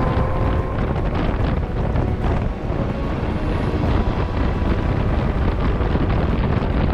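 Wind buffeting the microphone of a moving motorcycle, with the bike's engine note faintly underneath, rising and then levelling off about a second in.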